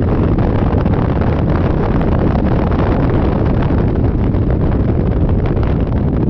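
Wind buffeting the microphone of a Yamaha Majesty 400 scooter on the move. It is a loud, steady, dense rumble, heaviest in the low range, and it never lets up.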